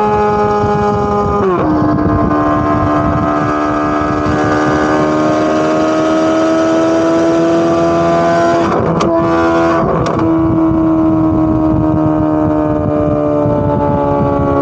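Chevrolet Corvette C8 Z06's naturally aspirated flat-plane-crank V8 exhaust at high revs, with a high, loud note. About a second and a half in the pitch drops sharply at an upshift. The note then climbs slowly, is broken by two short cracks about nine and ten seconds in, and falls slowly near the end as the engine eases off.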